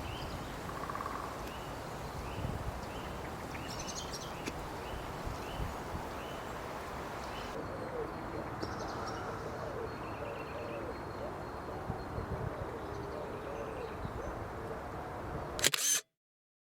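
Wild birds calling: short chirps repeated again and again over a steady background hiss, with a lower wavering call joining about halfway. The sound ends in a sharp click and cuts out to silence just before the end.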